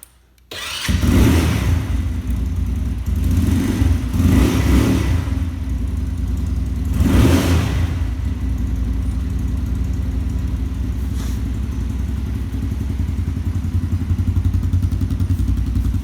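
Venom X22 125cc motorcycle engine starting cold on choke: it catches about half a second in, is blipped up and down several times, then settles into a steady idle.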